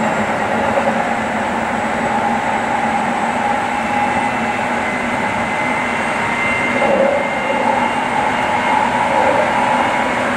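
Keikyu 800 series electric train running at speed, heard inside the front car: a steady rumble of wheels on rail with the hum of its field-chopper-controlled traction motors and gearing. Faint whining tones come in near the middle.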